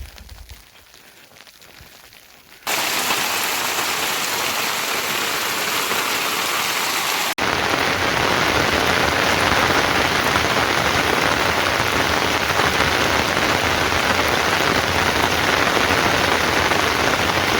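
Heavy rain falling, a loud, even hiss that comes in abruptly about three seconds in after a much quieter start, with a brief dropout a few seconds later.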